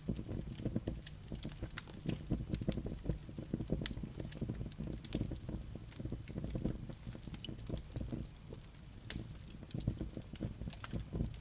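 Wood fire burning in a fireplace: a steady low rumble of flames with frequent sharp crackles and pops from the burning logs and embers, coming irregularly.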